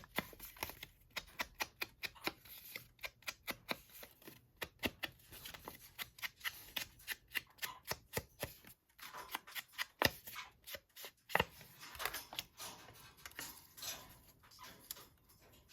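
Paper ephemera being handled: cards and paper pieces shuffled and rustled, with many small irregular clicks and taps.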